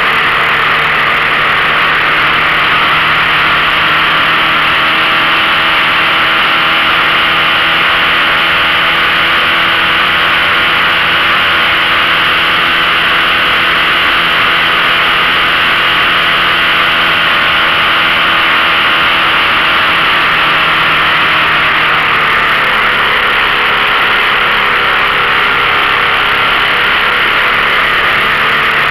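15 hp outboard motor running steadily under way, over a loud hiss of wind and water; its pitch shifts slightly about three-quarters of the way through.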